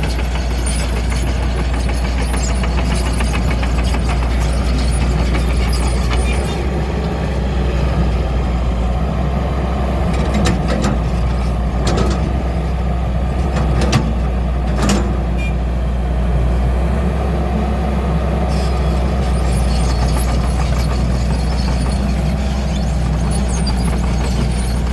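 XCMG 140's Cummins diesel engine running steadily, with a few brief sharp noises about halfway through.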